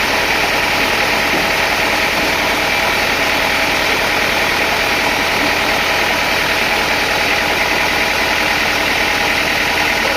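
Sawmill machinery running steadily, an even engine-like drone with no change in pace or load.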